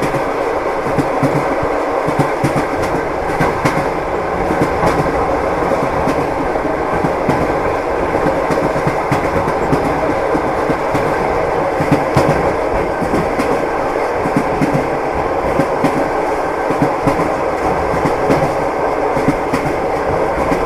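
Train wheels clacking over the rail joints amid the steady rumble of a moving train, with irregular short knocks over a continuous running noise.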